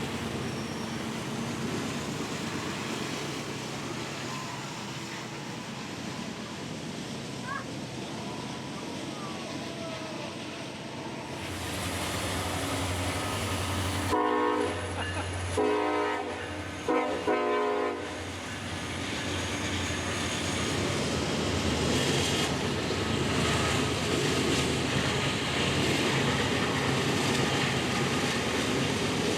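A diesel locomotive approaching with its engine rumble building, then sounding its multi-chime horn in a few blasts about halfway through, followed by the steady noise of the train passing.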